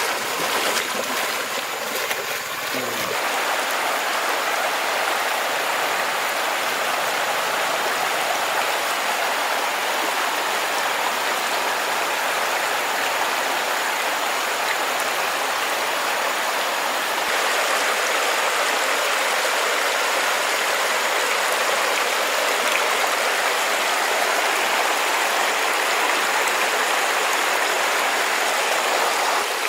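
Steady rush of flowing water, like a stream running, with a few faint knocks in the first few seconds.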